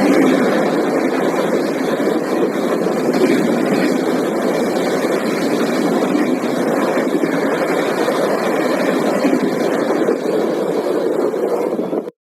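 Express train passing at high speed: a steady rushing rumble of wheels and coaches on the rails that cuts off abruptly near the end.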